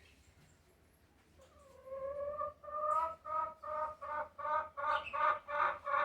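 Chicken calling: starting about a second and a half in, one drawn-out note leads into a run of rhythmic clucking notes, about three a second, that grow louder.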